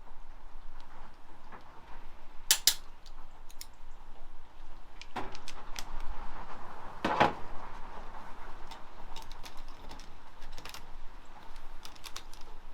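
Hand tools and sockets clinking and clanking against metal as they are handled, with two louder metallic knocks, about two and a half seconds in and about seven seconds in.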